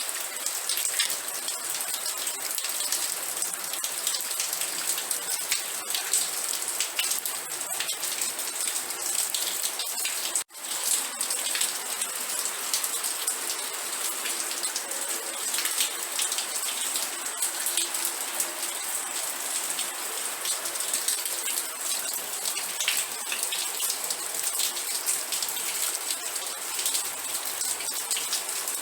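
Steady rain with dense pattering of drops on a surface. The sound cuts out for an instant about ten seconds in, then resumes.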